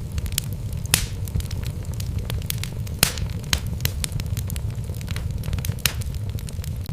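Wood fire burning in a fireplace: a steady low rumble of the flames with irregular sharp crackles and pops from the logs, two louder snaps about a second and three seconds in.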